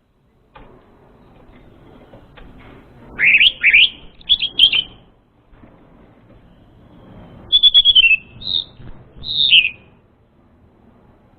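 Orange-headed thrush song played as a lure call: two bursts of quick, clear whistled notes that sweep up and down, about three seconds in and again about seven and a half seconds in, over a faint background hiss.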